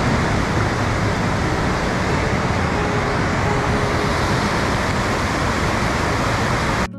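Steady loud rush of water from Bow Falls, cut off abruptly near the end.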